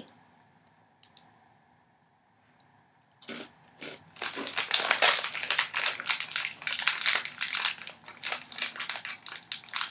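Crunchy chewing of a small bourbon biscuit, many quick crunches close to the microphone, beginning about three seconds in after a near-silent pause.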